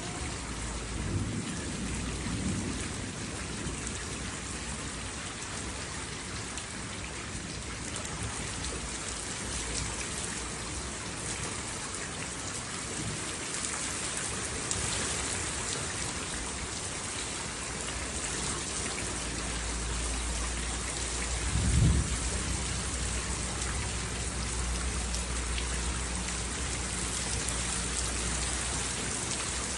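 Steady heavy rain falling on surfaces, with thunder rumbling low in the background; a louder close roll of thunder comes about 22 seconds in.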